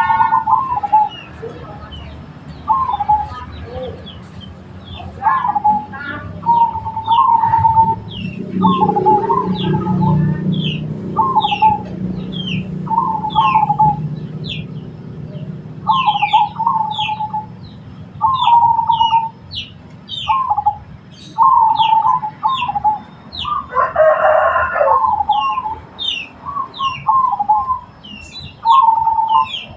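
Zebra doves (perkutut) cooing, short trilled phrases repeated every second or two, with thin high chirps over them. A low rumble comes through from about 8 to 15 seconds in, and one louder, harsher call sounds about 24 seconds in.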